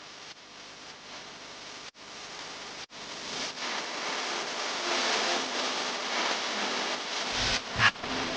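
Outdoor bonfire burning with a steady crackling hiss that grows louder after a few seconds and cuts out briefly twice. A short low thump comes near the end.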